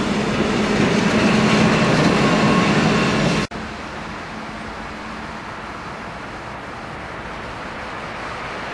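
Electric passenger train running past at close range: a loud, steady rolling rumble of wheels on rail with a few held whining tones. About three and a half seconds in, the sound cuts off abruptly to a quieter, even running noise as a multiple-unit train passes.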